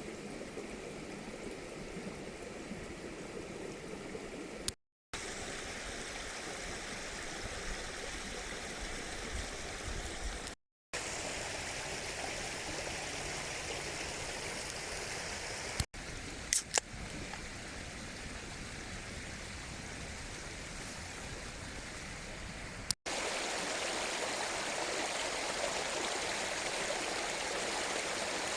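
Mountain stream flowing with a steady rush of water, broken by several abrupt cuts. A couple of sharp clicks come about two-thirds of the way through, and the water is louder in the last few seconds.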